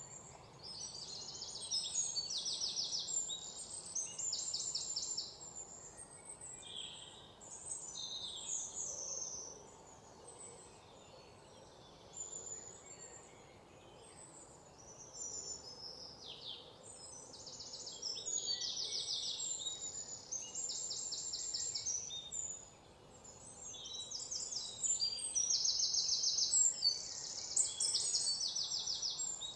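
Small birds chirping and singing in repeated high-pitched rapid trills, over a faint steady background hiss.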